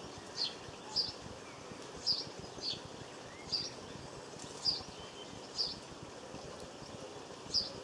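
A small garden bird giving short, sharp chirps, about eight at uneven intervals, over a steady background hiss.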